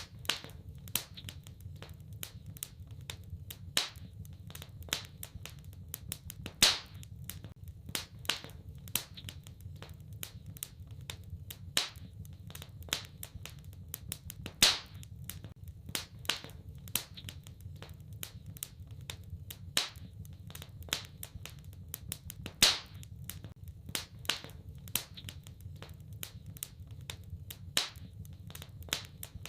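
Wood fire in a fireplace crackling, with irregular sharp pops, a louder one every several seconds, over a steady low rumble.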